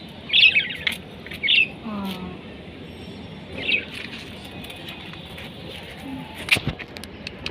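A bird chirping in short bursts, three times. A brief human vocal sound comes about two seconds in, and a sharp knock near the end.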